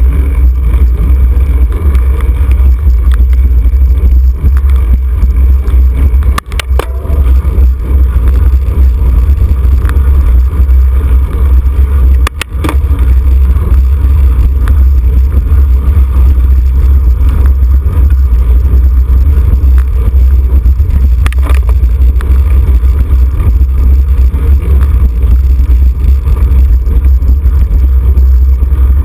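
Heavy wind buffeting on the microphone of a camera carried on a moving racing bicycle, a loud steady low rumble. It briefly drops out with a click twice, about six and twelve seconds in.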